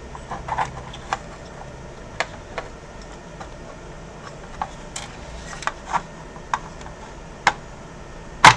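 Scattered light clicks and taps of a metal heat sink and small parts being handled and set onto an Xbox One S motherboard, with a sharper knock near the end.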